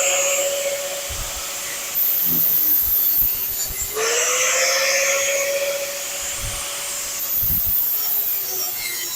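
High-speed air tool, such as a cutoff wheel or die grinder, cutting quarter-panel sheet metal: a steady whine with a hiss that sags in pitch as it bites into the metal and climbs back as it spins up again about four seconds in.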